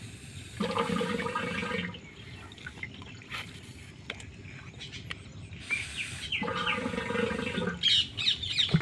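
Birds calling: two longer calls of about a second each, some six seconds apart, with short high chirps between and after them.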